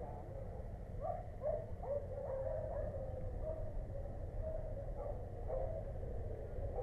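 A dog barking and yipping repeatedly in short calls, most densely about a second to three seconds in, over a steady low rumble.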